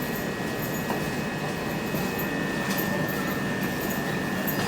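Electric train standing at a station platform, its equipment giving a steady hum with a constant high-pitched whine.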